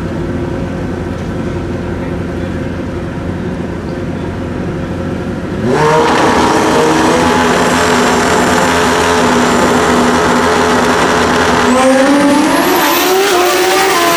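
Pro Xtreme drag bike engine running at the line, then launching at full throttle about six seconds in, with a sudden jump in loudness. The engine stays loud, with pitch changes through the run, and its pitch climbs again near the end.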